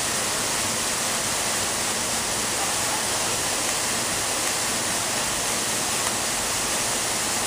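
Steady rush of falling water, an even unbroken hiss with no strokes or changes.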